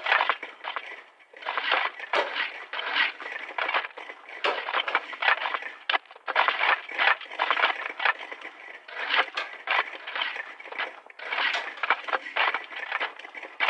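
A hand tool worked against a material in quick, repeated scraping strokes, in runs of several strokes broken by short pauses.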